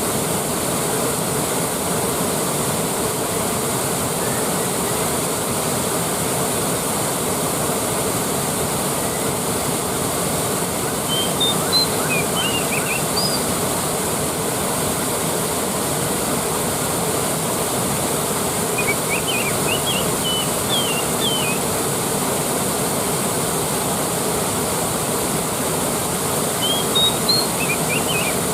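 Waterfall rushing with a steady, even roar of falling water. A bird chirps briefly three times over it, in short high calls.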